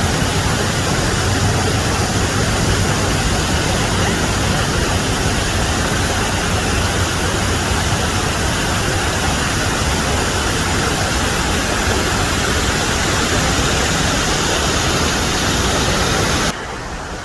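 Rushing water of a creek cascade: a loud, steady roar that drops suddenly to a quieter rush near the end.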